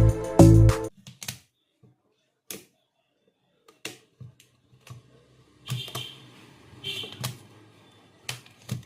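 Background music that stops abruptly about a second in, followed by scattered light clicks and taps, a dozen or so, irregularly spaced, from small hard objects being handled.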